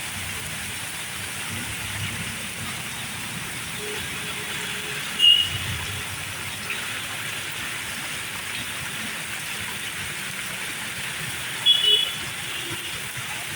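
Steady hiss of heavy rain falling. Two brief high-pitched tones cut in, about five seconds in and again near the end.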